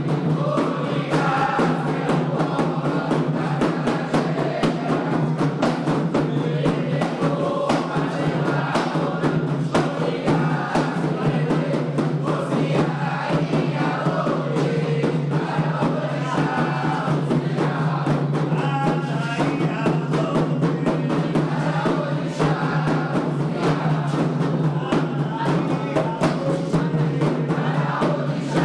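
Candomblé ritual music for Xangô: atabaque hand drums beating a dense, continuous rhythm while a group sings chants together.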